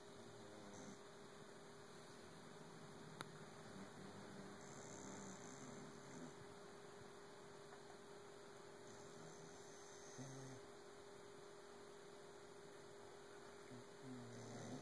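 Faint, slow snoring from a sleeping dog, a soft low sound that comes and goes every few seconds, under a steady electrical hum.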